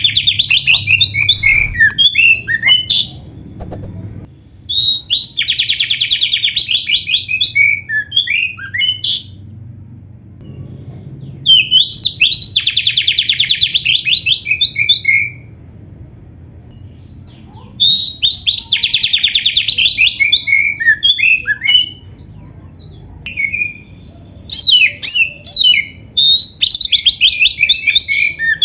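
Oriental magpie-robin (kacer) singing in loud phrases of a few seconds each, five in all with short pauses between. Each phrase opens with a fast, buzzy rattle of repeated notes and runs on into a string of varied, quickly sweeping whistled notes.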